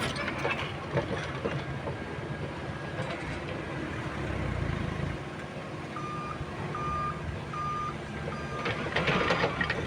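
Diesel engine of a working mini excavator running, with occasional clanks. From about six seconds in, a backup alarm beeps at a steady pace, a little more than once a second.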